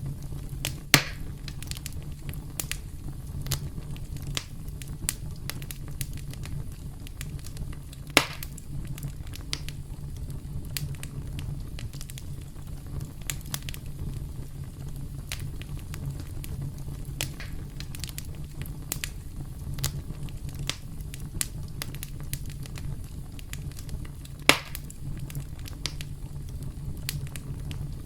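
Campfire burning: a steady low rumble of flames under constant small crackles, with three louder, sharp pops of burning wood spread through.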